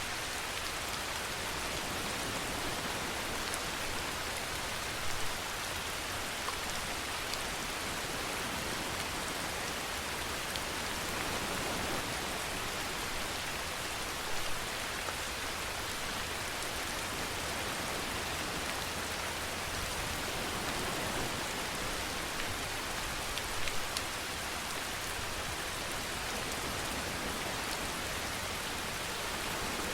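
Steady rainfall, an even hiss of rain on a surface, with a few brief louder drops or patters, three of them standing out.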